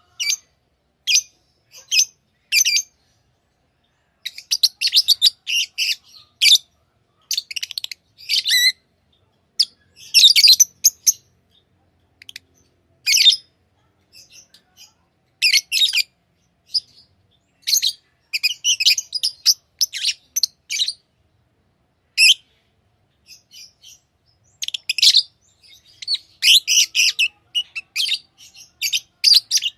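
Pet lovebirds chirping: short, high-pitched calls in irregular clusters, with brief pauses between.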